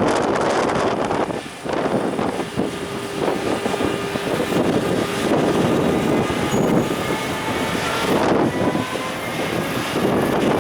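Container freight train hauled by an EF510 electric locomotive pulling out and gathering speed: a steady rumble of wheels with a faint rising whine, under heavy wind noise on the microphone.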